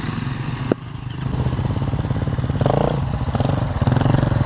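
Enduro dirt bike engine running with a rapid, even firing pulse. There is a sharp click about three quarters of a second in, after which the engine runs a little louder.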